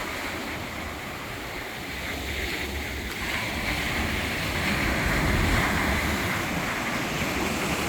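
Sea waves washing up on a beach, swelling to a louder wash about halfway through, with wind buffeting the microphone.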